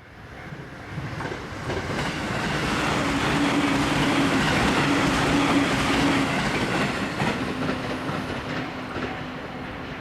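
Electric train passing at speed: the rumble of its wheels on the rails grows over the first few seconds, peaks about halfway through, then slowly fades. A steady low hum runs under it.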